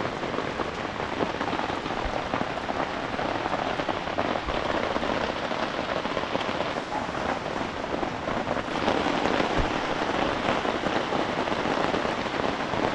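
Heavy rain falling steadily on a camp tarp flysheet overhead, an even dense hiss, with a few faint low thuds.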